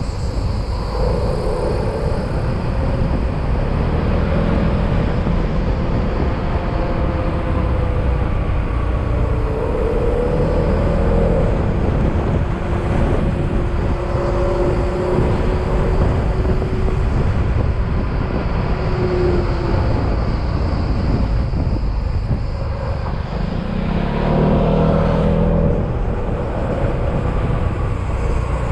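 Yamaha XMAX scooter riding along a road: its engine note drifts up and down with speed over a heavy rumble of wind and road noise. The engine briefly gets louder near the end.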